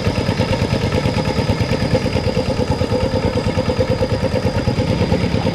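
Rice-field tractor engine running steadily with a rapid, even chugging beat.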